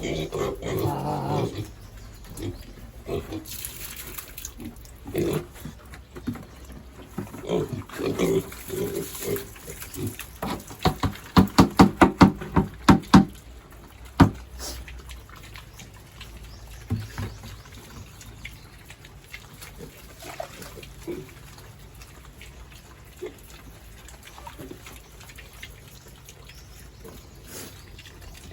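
Pigs grunting, with a quick run of loud grunts about halfway through and fainter, scattered grunts after it.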